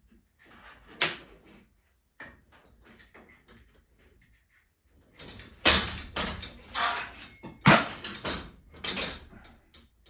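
Irregular metal knocks, clanks and rattles of garage door hardware and tools being handled, with a sharp hit about a second in and a louder run of clatter in the second half.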